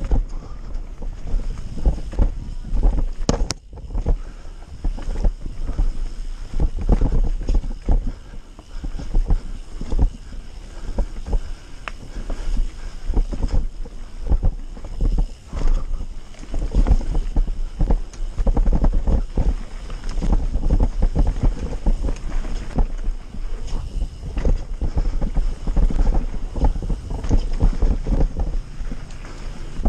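Wind buffeting the microphone: a loud, uneven low rumble with many short irregular crackles.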